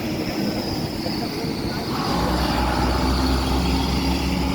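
Vehicle engine running steadily, with a deeper, stronger drone setting in about two seconds in.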